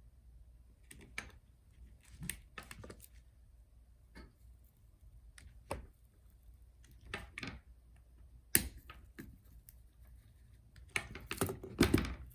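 Scattered clicks and scrapes of a tool working glued-in battery cells loose from a MacBook Pro's top case. The sharpest click comes about eight and a half seconds in, and a quick flurry of clicking and scraping follows near the end.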